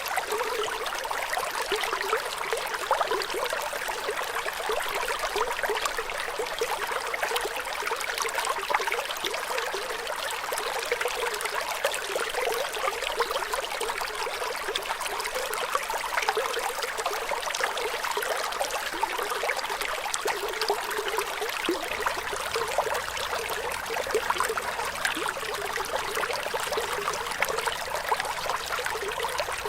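Running water trickling and splashing steadily, like a small stream or a flow of water over stones, with a constant level and little low rumble.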